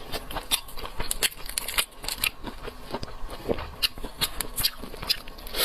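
Close-miked eating of seafood: irregular clicks and crackles of biting and chewing.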